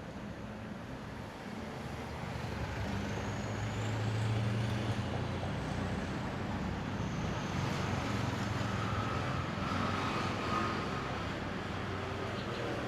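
A motor vehicle's engine running, a low steady hum that grows louder about two seconds in and holds, as traffic passes.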